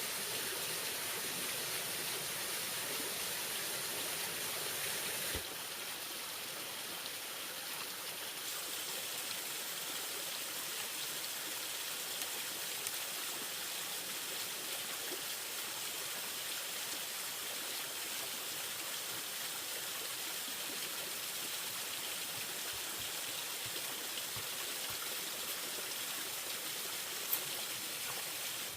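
Steady rushing of flowing stream water, with a slight change in level about five seconds in.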